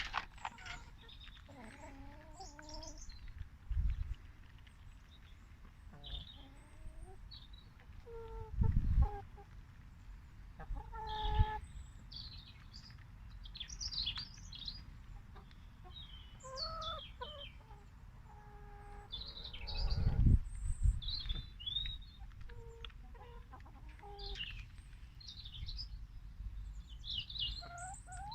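Domestic chickens clucking and calling in short scattered bursts, mixed with many brief high chirps. There are a few low thumps, the loudest about nine and twenty seconds in.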